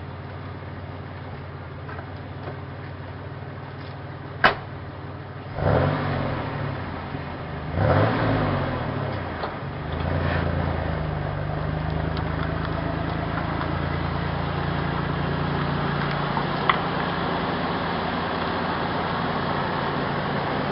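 1991 GMC Syclone's turbocharged 4.3-litre V6 running through a Magnaflow exhaust, which the owner finds too quiet. It idles, with a sharp click about four seconds in, then is revved twice, once more lightly, and from about ten seconds runs steadily and louder.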